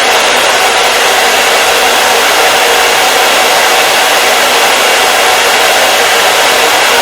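Hair dryer running steadily: a loud, even rush of blown air with a faint steady hum under it, no change in pitch or level.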